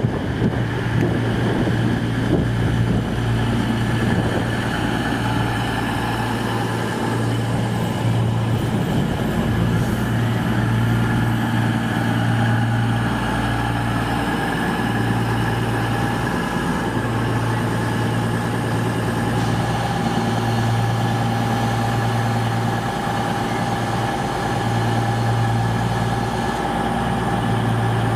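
A train standing with its engine and equipment running steadily. A low hum drops out briefly every few seconds, over a steady higher whine.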